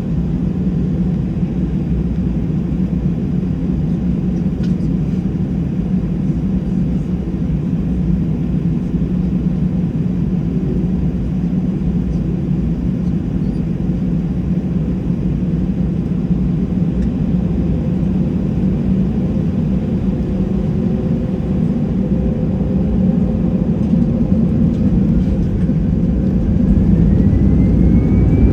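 Cabin noise inside an Airbus A320-214: the CFM56 jet engines run with a steady low rumble. Over the last several seconds a whine rises in pitch and the sound grows slightly louder as the engines spool up.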